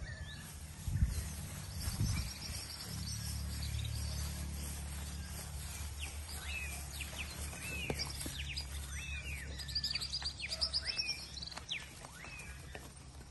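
Several small birds chirping and trilling over a steady low rumble, busiest in the second half. Two low thumps about one and two seconds in.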